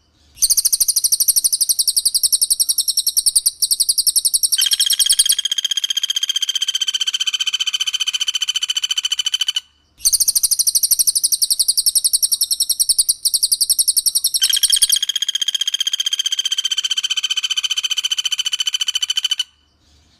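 Recorded calls of a cililin and a pelatuk bawang (common flameback woodpecker) in rapid, tightly repeated trills. The sequence plays twice: each time a very high, fast trill switches after about four seconds to a lower, steadier rapid trill, with brief breaks at the start, about ten seconds in, and just before the end.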